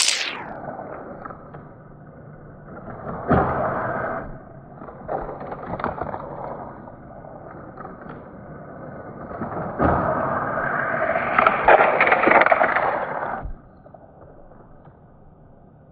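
Die-cast toy cars rolling and rattling along plastic Hot Wheels track, played back slowed down so it sounds low and dull. There are three runs of rolling with sharp ticks: a short one about three seconds in, another around five to six seconds, and the longest from about ten to thirteen seconds, after which it drops away.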